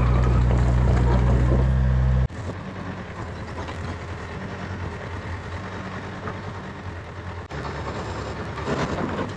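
An engine running with a loud, steady low hum. About two seconds in it drops suddenly to a quieter, rougher running sound.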